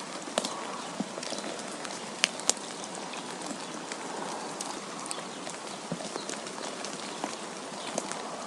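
Steady hiss of wind outdoors in winter, dotted with scattered irregular ticks and taps, a couple of sharper ones a little past two seconds in.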